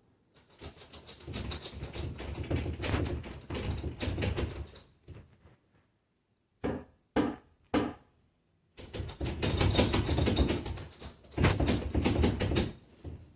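Two long bouts of scraping and rattling handling noise, with three sharp knocks in the pause between them.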